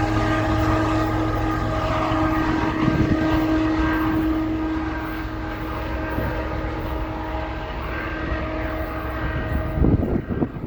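A CSX diesel freight locomotive's engine runs with a steady droning hum over the rumble of the passing train. The hum stops near the end, leaving irregular low rumbling and thumps.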